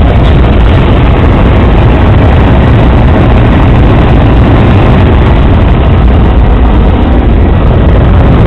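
Helicopter engine and rotor noise, loud and steady, with no change in pitch.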